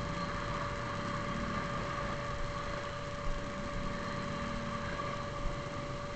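Motorcycle engine running at low speed in slow, dense traffic, mixed with the engines of the surrounding vehicles. A steady thin whine sits underneath, and there are a couple of small knocks.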